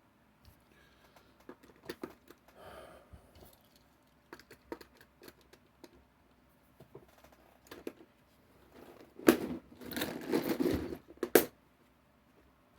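Handling of diecast toy trucks and their small plastic display cases: scattered light clicks and rustles, then a louder stretch of plastic scraping and crinkling with a few sharp clicks from about nine to eleven and a half seconds in.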